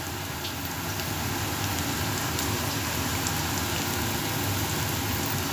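Chopped potato, onion and red lentils frying in a little oil in a stainless steel pot: a steady sizzling hiss that grows slightly louder.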